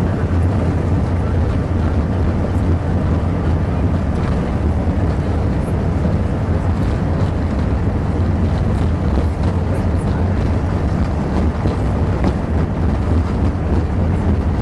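Steady low rumble in the main-deck cabin of an Airbus A380 during takeoff, mostly noise from the runway surface and the landing gear, with little engine sound heard.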